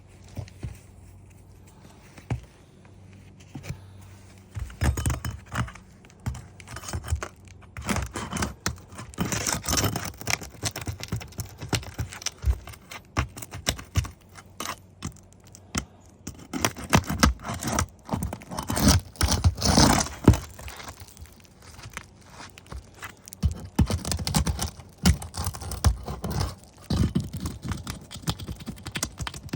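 Asphalt roof shingles being pried up and worked by hand: irregular scraping, knocks and crackling as the tar seals break loose, starting about four seconds in.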